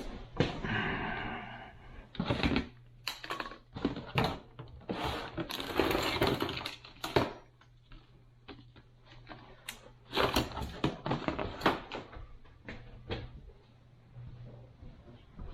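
Irregular knocks, clicks and rattles of objects being handled, over a steady low hum.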